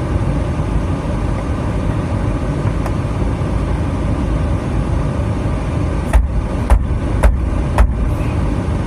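Steady vehicle running noise, with four sharp knocks about half a second apart near the end.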